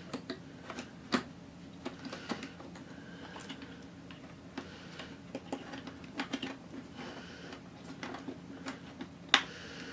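Irregular light clicks and taps of laptop parts being handled and fitted back together, plastic and small components knocking, with one sharp click near the end.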